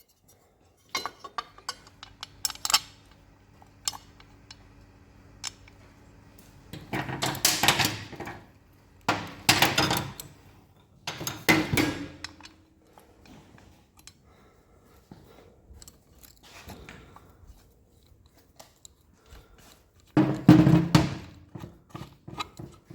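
Metal hand tools and motorbike parts clinking and knocking, with several louder clattering stretches about seven, nine, eleven and twenty seconds in.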